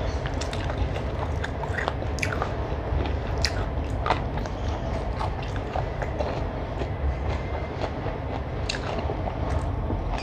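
Close-miked chewing with wet mouth clicks and smacks as rice and chicken curry are eaten, over a steady low hum.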